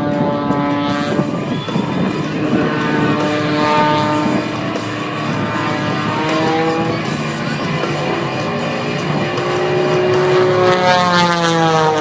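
World War II piston-engined fighter's radial engine and propeller running with a steady, layered drone whose pitch drifts slowly; near the end the pitch drops steeply as the tone grows louder.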